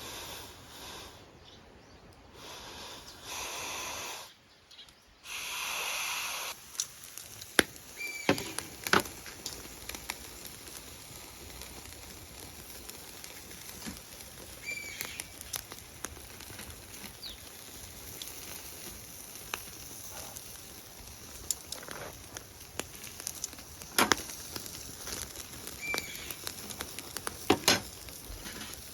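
Small wood fire crackling in a compact B6-size fire pit, with frequent sharp pops and a few short high squeals. Three bursts of hissing come in the first six seconds.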